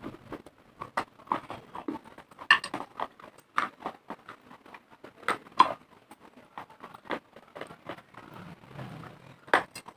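Close-up crunching and chewing of hard, dry clay: a person biting and grinding pieces of baked clay pot and chalky khadiya between the teeth, giving irregular sharp crunches, a few of them louder, with softer grinding in between.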